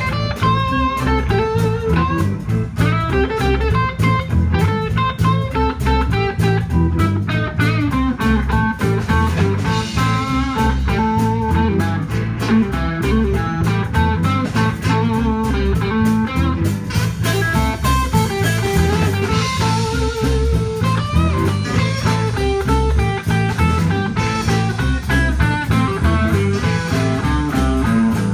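Live blues band playing an instrumental break, with guitar, bass and drum kit and a lead line of quick note runs, and no singing.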